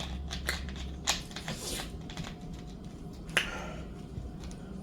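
Close-up eating noises: a handful of sharp mouth clicks and smacks, the loudest about three and a half seconds in.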